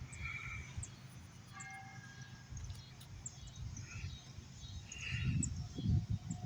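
Birds chirping over the low, steady rumble of a distant approaching freight train. A rough low rumbling grows louder near the end.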